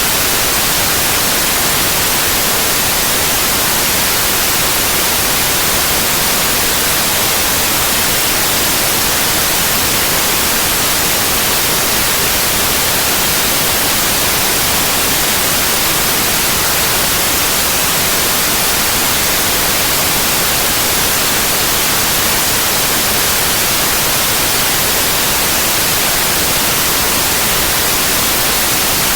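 Electronically generated white noise: a loud, steady, even hiss across all pitches, brightest in the highs, with no change or interruption.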